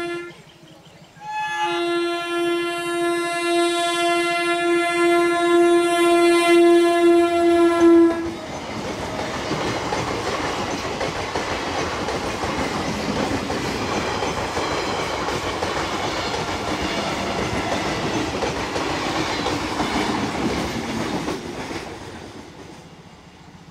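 Local passenger train sounding its horn in one long steady blast of about seven seconds, just after the tail of a shorter one, then rushing past with the rumble and clatter of its coaches on the track, fading away near the end.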